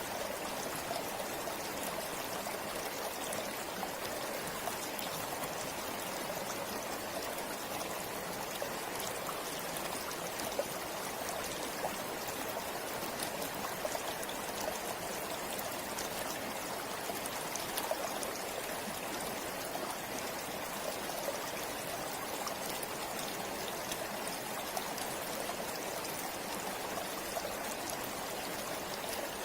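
River flowing steadily, with a continuous rush of water and many small splashes and trickles through it.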